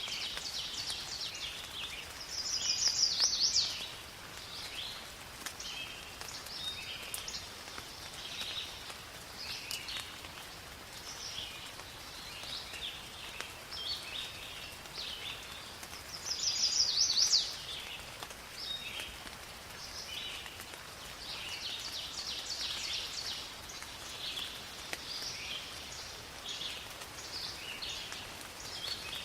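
Rain falling steadily in a forest while many birds chirp and sing over it. A louder, high, rapid call stands out twice, about three seconds in and again about seventeen seconds in.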